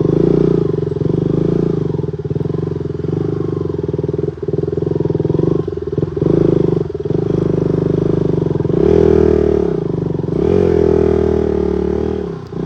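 Vehicle engine running steadily under load on a muddy dirt road, revving up and down twice, about nine and eleven seconds in.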